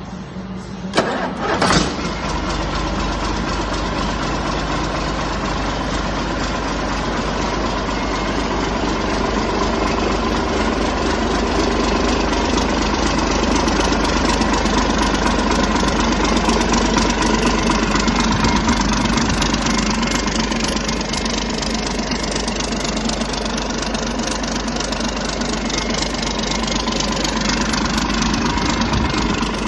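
DAF XF315 ZDE Euro 2 diesel engine cranked and catching within about two seconds, then running steadily at idle.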